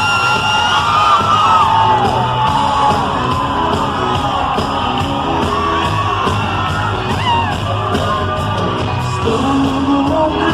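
Concert crowd screaming and whooping over a live band playing, many voices sliding up and down in pitch on top of the steady music.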